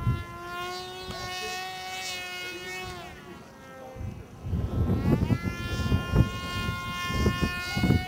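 Electric motor and propeller of a radio-controlled EPP foam flying wing whining in flight. The pitch falls about three seconds in, then climbs again and holds. Wind gusts buffet the microphone in the second half.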